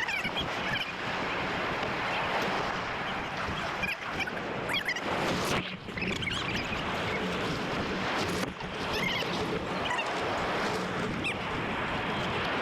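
Ocean surf and wind rushing over the microphone, with short high calls now and then.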